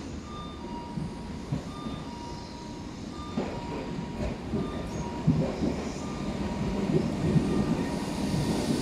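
Tobu 800-type electric commuter train of the 8000-series family pulling into the station, a low rumble that grows steadily louder as it nears, with a few sharp knocks.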